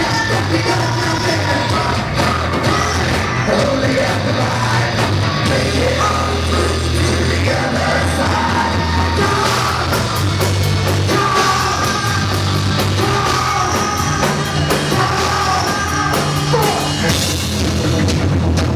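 Loud live rock band playing, heavy guitars and drums with a singer's voice over them.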